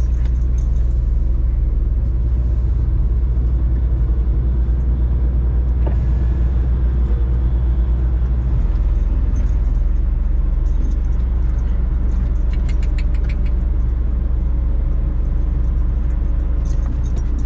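Semi truck's diesel engine running with a steady low rumble, with a brief run of light clicks about thirteen seconds in.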